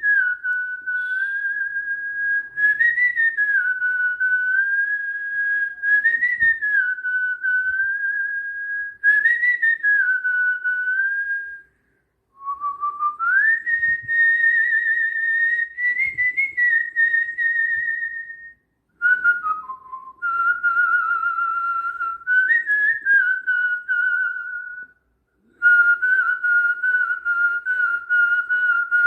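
A person whistling a slow, mournful tune with long held notes, in four phrases separated by short breaks.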